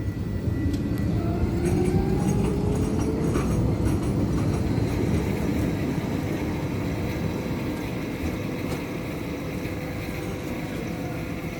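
Tram accelerating, the whine of its electric traction motors rising in pitch over the rumble of wheels on rail, then running on at a steady pitch.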